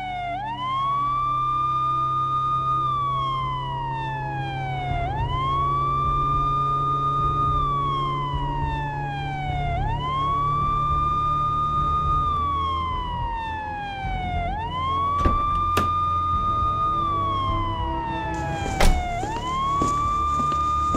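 Police siren wailing in a slow repeating cycle, about every four to five seconds: each cycle rises quickly, holds high, then falls slowly. A low hum runs underneath, and there are a couple of sharp clicks, then a louder crack near the end.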